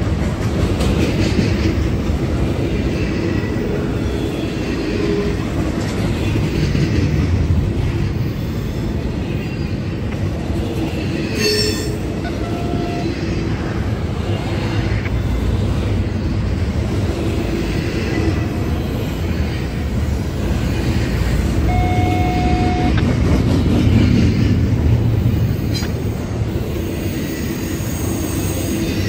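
Freight train cars rolling past: a steady rumble of steel wheels on rail, with a couple of short wheel squeals.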